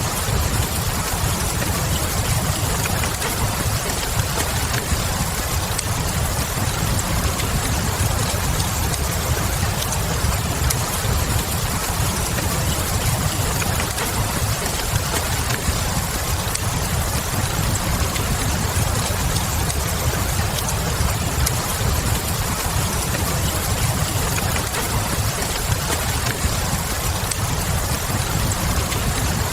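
Steady rain mixed with a fireplace: a constant low rumble under an even hiss of falling rain, with a few small crackles of burning wood.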